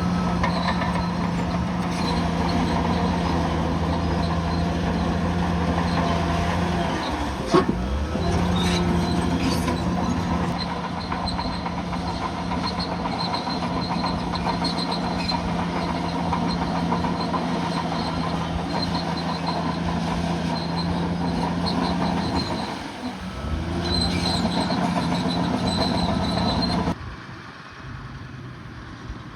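Bulldozer's diesel engine running steadily under work, with a high squeal coming and going over it and a sharp metallic knock about seven and a half seconds in. Near the end the sound drops abruptly to a quieter engine.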